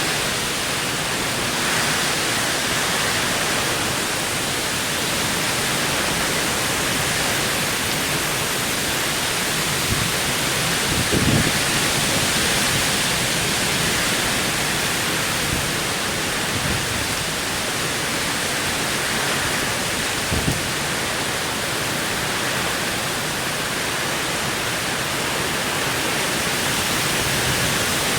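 Heavy rainstorm: a steady, dense hiss of downpour, with a brief low knock about halfway through and another about two-thirds through.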